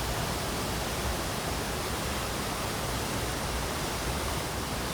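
Steady rushing noise of a large waterfall heard up close, its spray and roar filling every pitch evenly.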